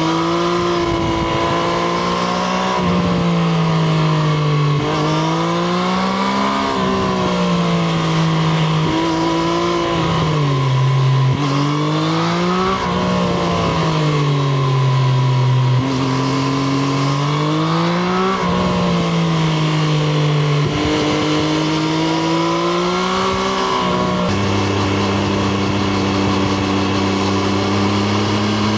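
Triumph Street Triple RS's 765 cc inline-three engine under way, revs rising and falling again and again as the bike is ridden through the gears and throttle changes. About 24 seconds in it settles to a steady, lower engine note.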